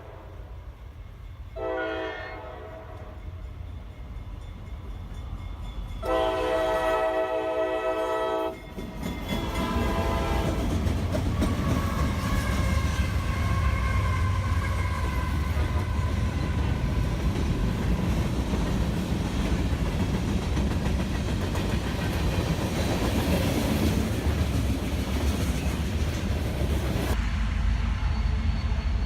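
Freight train horn: a short blast about two seconds in, then a long blast and a shorter one, followed by the steady rumble and clatter of the train passing on the rails. Near the end the sound changes abruptly to a lower, steady rumble.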